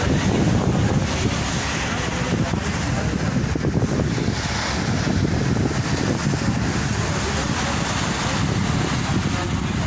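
Wind buffeting the microphone over the steady rush of a ship underway on the water.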